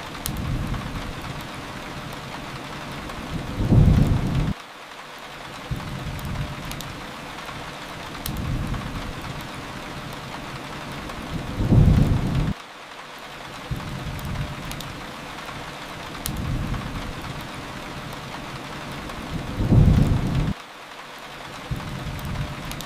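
Steady rain with three low thunder rumbles, each swelling for about a second and then cutting off suddenly, roughly eight seconds apart. Faint crackles of a wood fire sound here and there over the rain.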